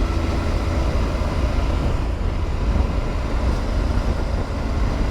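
Motorcycle on the move, heard through the camera: a steady low rumble of the Triumph Tiger 900 GT Pro's three-cylinder engine mixed with wind noise on the microphone.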